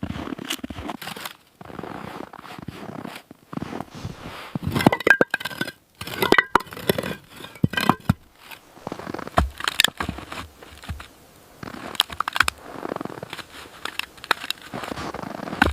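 Irregular knocks, crunches and scrapes of objects being handled, with a few brief ringing clinks about halfway through.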